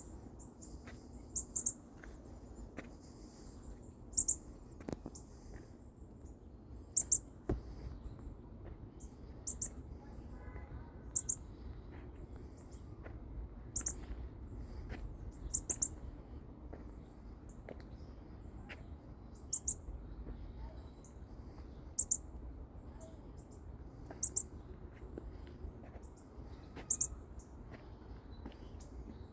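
A baby bird peeping: short, very high-pitched calls, singly or in quick pairs, repeated every couple of seconds.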